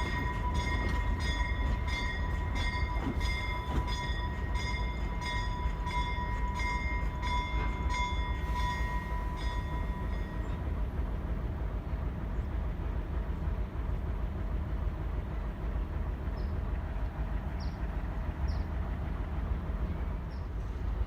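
Alco S-6 diesel switcher locomotive running with a low, steady engine rumble. Its bell rings with regular repeated strikes for about the first ten seconds, then stops.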